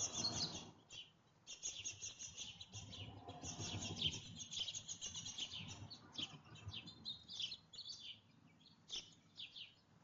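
Small songbirds chirping and twittering in quick, high runs, densest in the first half and thinning to scattered chirps later on.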